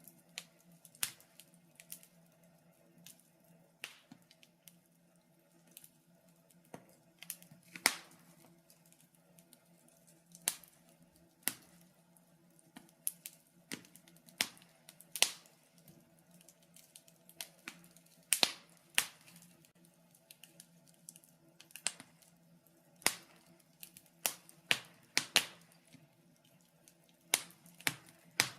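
Wood fire crackling in a fireplace: irregular sharp pops and snaps, uneven in spacing, some single and some in quick clusters, over a faint steady hum.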